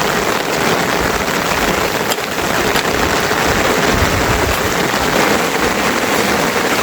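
Steady rain, a dense even hiss, with a few faint ticks of drops about two to three seconds in.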